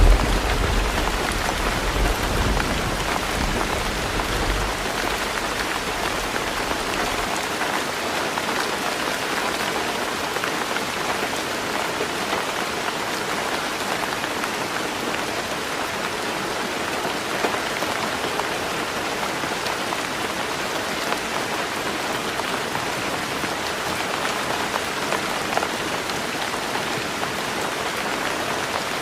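Heavy rain falling steadily on a tin roof. The low rumble of a thunderclap fades out over the first several seconds, leaving the even patter of the rain.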